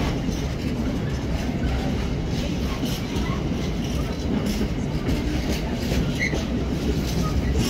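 Container freight train's loaded flat wagons rolling past: a steady low rumble with repeated clacks of the wheels over the rail joints.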